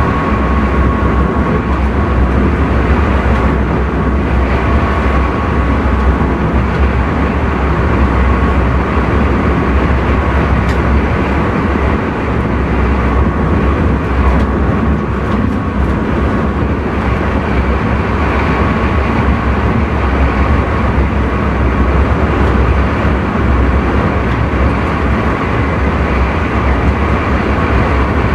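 Intercity train running at speed, heard from inside the driver's cab: a steady rumble of wheels on the track, with a thin steady whine over it.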